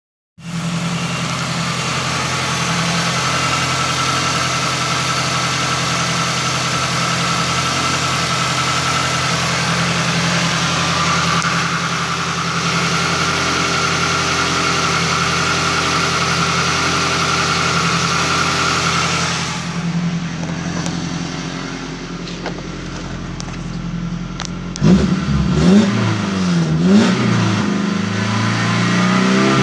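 2004 Toyota Hilux 2.7-litre petrol four-cylinder engine idling steadily with the bonnet open. Near the end, heard from the cab, it is revved up and down three times and then held at about 3000 rpm.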